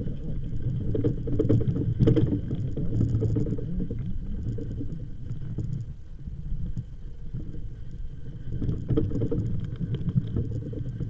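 Wind rumbling on the microphone, uneven and gusty, with a few faint clicks and a faint steady high tone underneath.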